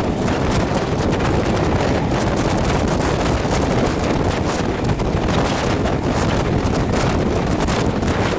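Wind buffeting the microphone held out of the window of a moving passenger train, over a steady low rumble from the train running along the track.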